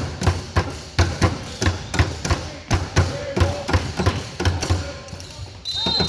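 A basketball being dribbled on a gym floor, about three bounces a second, with short sneaker squeaks in between. A high steady tone starts near the end.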